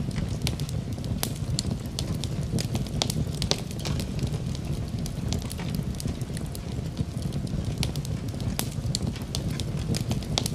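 Fire burning in a fireplace, crackling with many irregular sharp pops over a steady low rumble.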